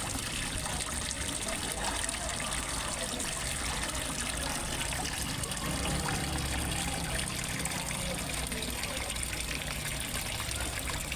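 Water steadily trickling and splashing into a fish pond, a continuous even rush with no breaks.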